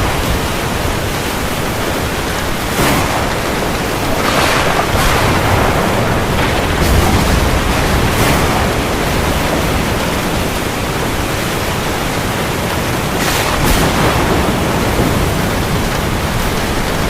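Heavy rain falling steadily, a dense hiss with brief louder swells now and then.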